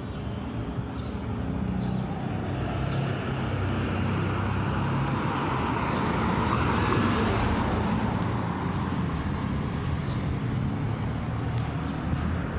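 A motor vehicle passing on the street: engine and tyre noise swell to a peak about halfway through, then fade away, over a steady low hum.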